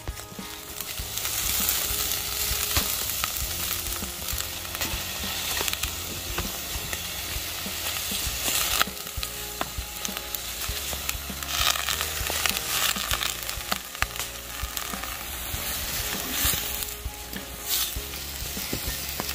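Sliced onions sizzling as they fry in a Dutch oven, with a spatula scraping and tapping against the pot as they are stirred.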